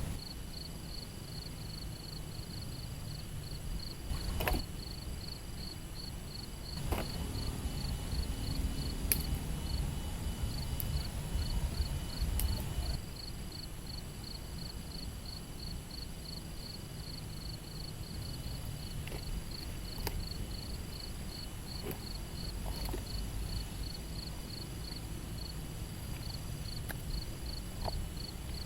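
An insect chirping steadily in an even, high-pitched pulse of about three chirps a second, over a low rumble, with a few scattered clicks and knocks.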